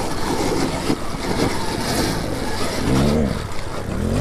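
Dirt bike engine revving in uneven bursts, the pitch climbing and dropping twice near the end, as the bike is worked up a hard trail section.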